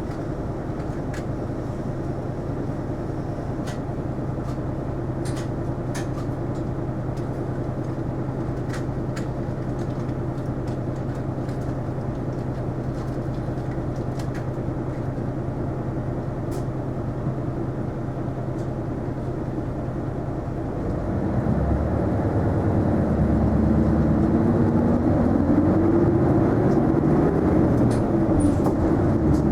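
Isuzu Erga non-step city bus heard from inside the cabin: the diesel engine runs at a steady low idle, then about 21 seconds in it revs up and the bus pulls away, the engine pitch climbing and falling back as it works through the gears.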